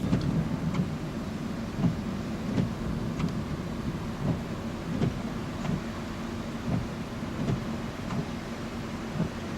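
Raindrops striking a car's roof and glass, heard from inside the closed car as separate, irregular sharp ticks over a steady low rumble during a thunderstorm.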